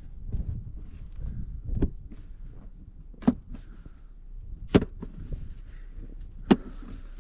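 Snow shovel working through snow, its blade striking sharply four times at an even pace, about a second and a half apart.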